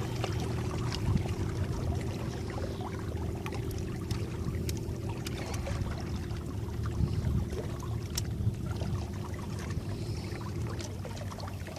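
Small electric boat motor running with a steady hum, while water splashes and trickles along the hull, with scattered small slaps.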